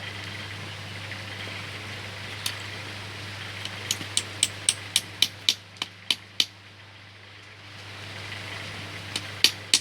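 Quick light taps on the wooden bird-cage frame, as a part is tapped into place after being propped so it won't snap: one tap, then a run of about ten at roughly four a second, and three more near the end. A steady low hum runs underneath.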